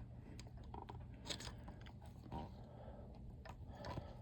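Faint, scattered clicks and scrapes of a bolt being lined up and started into its thread on a boat engine by hand.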